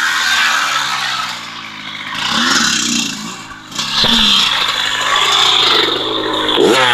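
Small off-road vehicle engine running and revving, its pitch rising and falling, with a dip in level a little past three seconds, a sharp knock about four seconds in, and revs climbing again near the end.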